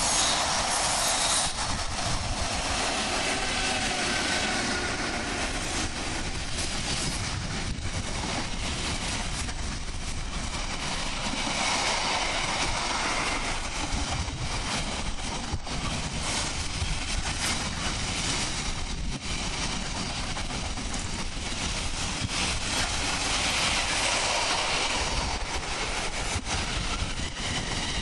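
Intermodal freight train of container wagons passing at speed close by: a steady, unbroken noise of wheels running on the rails.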